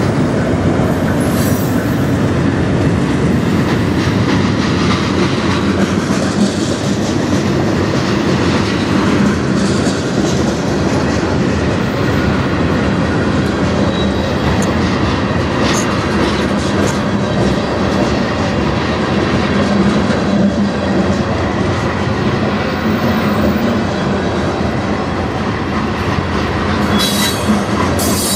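Freight cars of a manifest train rolling past at close range: steel wheels running on the rails with a steady loud rumble and clatter. A brief high squeal comes near the end.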